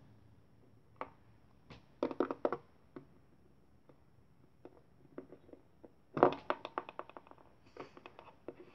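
Hands handling small plastic toy figures and props, making a series of sharp clicks and taps: a quick cluster about two seconds in and a dense rapid run of clicks around six seconds in.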